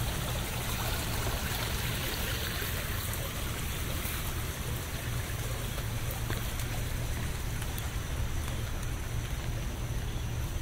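Steady rain: an even hiss with a low rumble underneath and a few faint ticks scattered through it.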